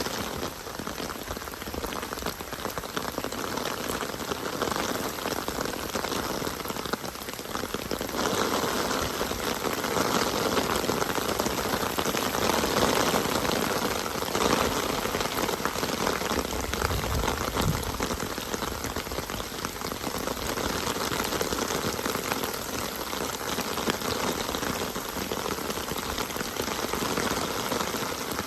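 Steady rain falling, growing a little heavier about eight seconds in, with a brief low rumble a bit past the middle.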